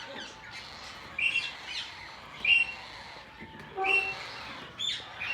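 Parrots calling: a string of short, sharp, high chirping calls, about one a second.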